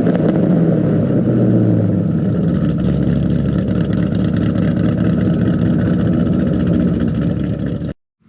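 Modified 2008 Mustang Bullitt 4.6-litre V8 with Ford Racing cams, Kooks long-tube headers, X-pipe and Magnaflow mufflers idling steadily and loud, with the choppy idle of the aftermarket cams. The sound cuts off suddenly near the end.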